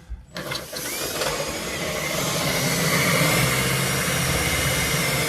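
Power drill running steadily, boring a hole through porcelain countertop tile, starting about half a second in.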